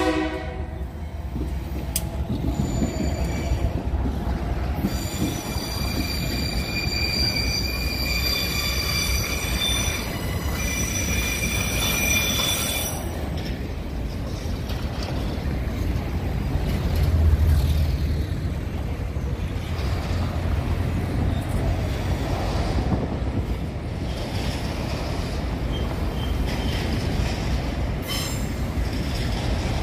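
Freight train rolling past: GE AC44i diesel-electric locomotives give way to empty grain hopper cars, with a steady low rumble of the wheels on the rails. High-pitched wheel squeal rings out from about two seconds in until about thirteen seconds in.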